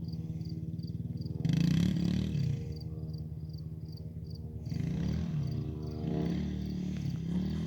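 Yamaha TT-R110 dirt bike's small four-stroke single-cylinder engine running, revved up and back down twice, about a second and a half in and again around five seconds in.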